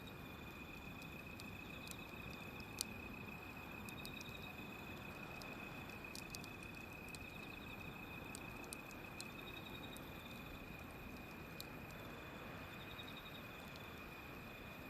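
Wood fire crackling, with scattered sharp pops, the loudest about 3 s in. Under it run a steady high-pitched tone and short runs of insect-like chirping that come and go.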